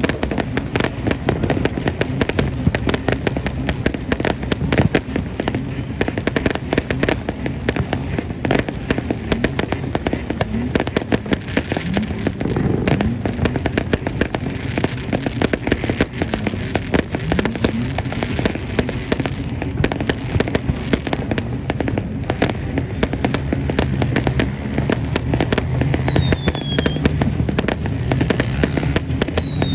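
New Year fireworks display: a dense, continuous barrage of bangs and crackling with no let-up.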